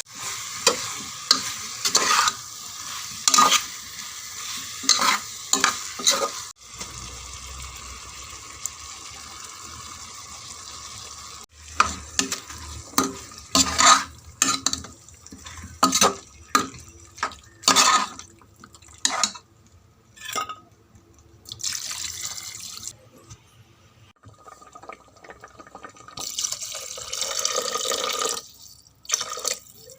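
A spoon stirring and scraping in a pot of frying food. Sharp scrapes and knocks come between stretches of sizzling, with a longer hiss near the end.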